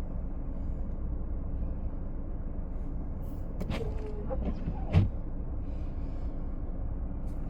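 Blizzard wind buffeting the microphone as a steady low rumble, with a few knocks and a thump about five seconds in.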